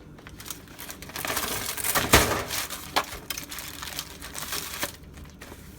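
Crinkling and rustling of the wrapping under a rack of baby back ribs as the rack is flipped over, loudest in one sharp crackle about two seconds in, with a few small clicks after.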